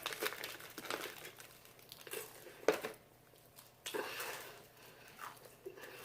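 Crinkling and tearing of crispy fried chicken wings being pulled apart and eaten, with scattered crackles and two sharper clicks about two and a half and four seconds in.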